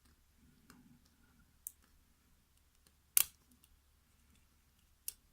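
Lock picking in a mortise cylinder lock: faint scraping and small metallic clicks of the pick working the pins against the tension wrench. One sharp click about three seconds in is the loudest, and lighter clicks come before and after it.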